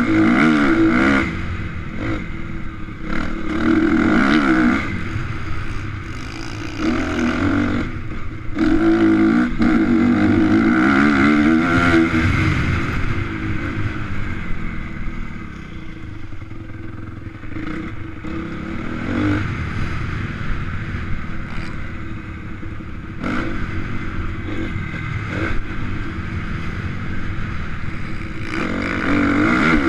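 Honda CRF250 single-cylinder four-stroke motocross engine riding hard, its pitch rising and falling repeatedly through throttle and gear changes. It is loudest near the start, again about a third of the way in and at the end, and eases off through the middle.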